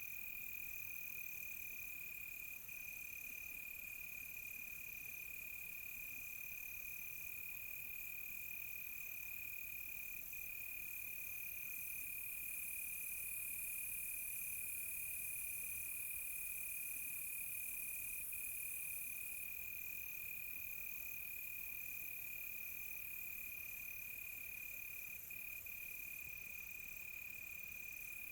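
Crickets chirping at night: one steady high trill runs unbroken, while another cricket pulses in a slower rhythm of about one chirp a second. A high insect hiss behind them grows louder for several seconds around the middle.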